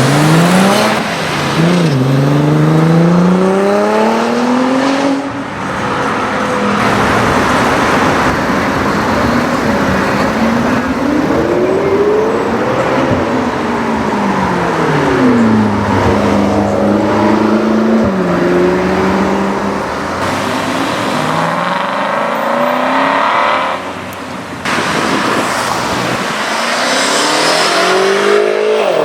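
Loud performance-car engines accelerating hard, the exhaust note climbing in pitch and dropping back at gear changes, then falling away as the cars pass.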